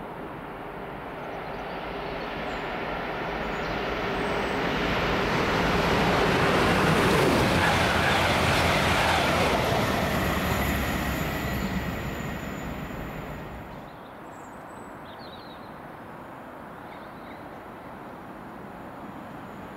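A train passing through the station: rail and wheel noise that swells over several seconds, is loudest about seven to ten seconds in, then fades away by about fourteen seconds.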